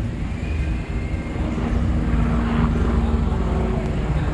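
Road traffic: vehicle engines running close by, a steady low rumble with an engine hum.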